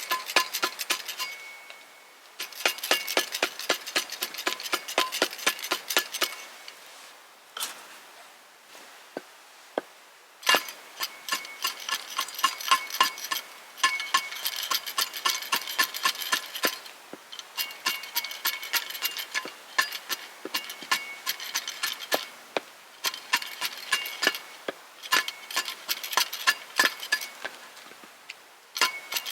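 Rapid repeated strikes of a metal tool with a ringing metallic tone, coming in runs of several seconds with short pauses between them.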